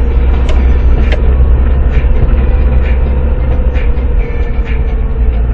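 Steady loud rumble of a moving vehicle picked up by a dash cam, with a faint whine that slowly falls in pitch.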